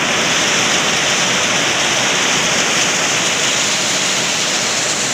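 Very heavy tropical downpour driven by strong wind: a steady, loud rush of rain.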